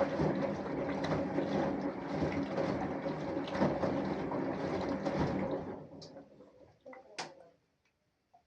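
Samsung Eco Bubble washing machine running, with water noise and a faint steady motor hum. The sound stops about six seconds in and is followed by a couple of short clicks.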